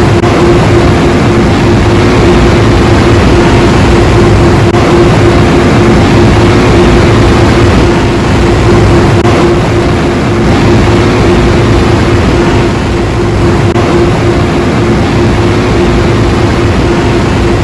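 Ryko Radius automatic car wash machine running: a loud, steady rush of noise with a constant hum underneath, dipping slightly about two-thirds of the way through.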